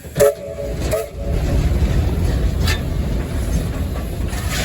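Steam locomotive heard from the cab: a short whistle toot right at the start and a fainter one about a second in, then a steady low rumble that builds and holds as the locomotive runs.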